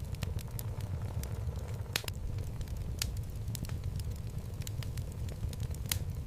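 Wood logs burning in a home fireplace: irregular sharp crackles and pops over a low steady rumble of the flames, with louder pops about two, three and six seconds in.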